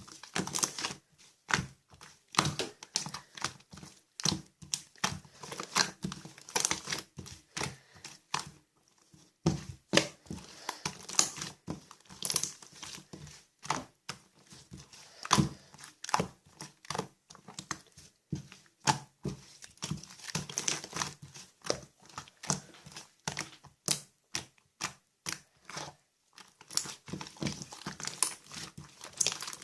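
Chewy, stretchy slime being squeezed and stretched by hand, giving dense, irregular crackling pops and clicks, with a brief pause about nine seconds in.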